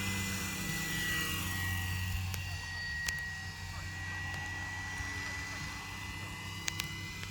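Scale RC Eurocopter EC135 helicopter flying: a steady high whine over a low hum. The whine dips slightly in pitch early on and then holds. There are a few sharp clicks about three seconds in and twice near the end.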